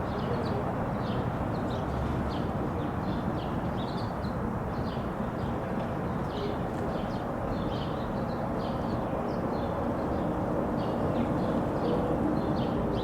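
Many small birds chirping, dense short high calls overlapping one another, over a steady low hum of city traffic.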